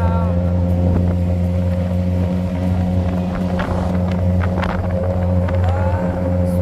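Suzuki GSX-R SRAD motorcycle engine running at a steady speed while riding, a constant hum with a few short clicks around the middle.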